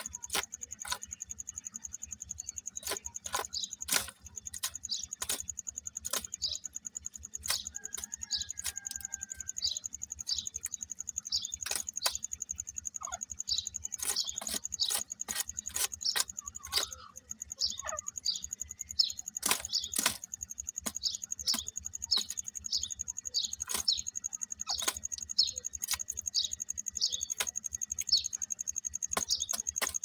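A bird's short, high chirps repeated about twice a second, among irregular sharp clicks, over a steady high whine.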